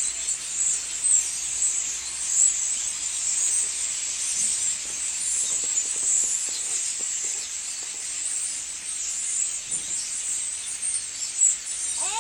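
A large flock of birds gathered in trees, many calling at once in a steady, high-pitched chattering din.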